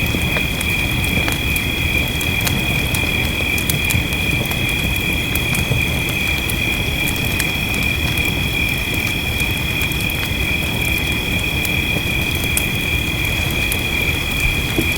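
Wood fire crackling with scattered sharp pops, over a steady low wash of rain and a constant high-pitched chirring chorus of night insects.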